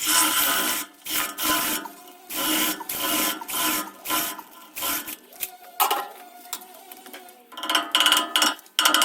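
A series of short, irregular scraping strokes, about one or two a second.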